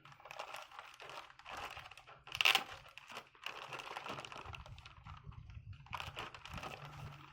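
Packaging crinkling, rustling and tearing as a motorcycle side fairing panel is unwrapped by hand, with one louder crackle about two and a half seconds in.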